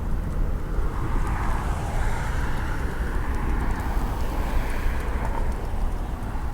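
Jet airliner on landing approach: a steady broad engine roar that swells and eases, over a heavy low rumble.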